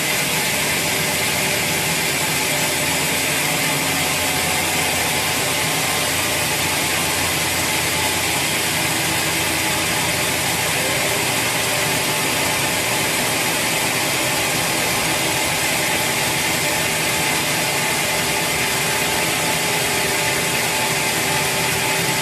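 Sawmill machinery running steadily: a loud, even mechanical noise with a constant hum that does not change.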